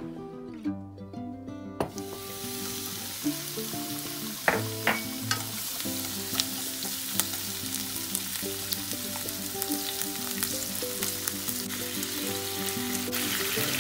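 Steamed octopus pieces sizzling as they are stir-fried in sesame oil in a frying pan. The moisture-laden octopus gives off water in the hot oil, and chopsticks stirring the pieces make a few sharp clicks about four and a half seconds in. The sizzle sets in about two seconds in over soft background music with held notes.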